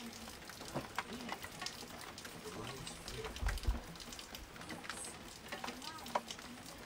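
Rain falling, heard as an irregular pattering of drops over a faint hiss, with one brief low thump about three and a half seconds in.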